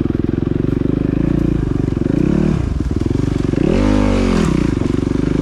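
Dirt bike engine running as it is ridden, easing off about two seconds in and picking back up, then revving up and dropping back down about four seconds in.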